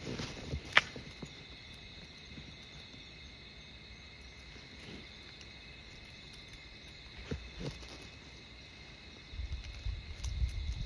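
Insects chirring steadily in a few high, unbroken tones, with a sharp click about a second in, a couple of soft knocks around seven seconds, and a low rumbling near the end.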